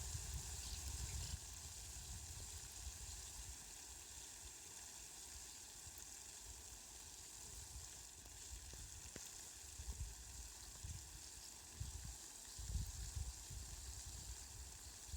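Rain falling steadily, a faint, even hiss, with irregular low rumbles coming and going.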